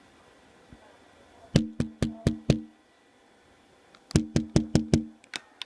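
Knocking on a hard, hollow surface: a quick run of five knocks at about four a second, a pause, five more, then a single knock near the end, each with a short ringing tone.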